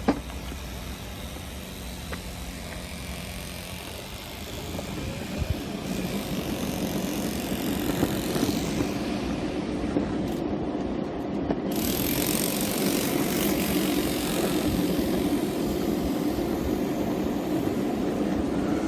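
Small electric skateboard rolling over pavement: a steady rushing wheel and ride noise with a few light clicks. It grows louder about four seconds in and again around twelve seconds.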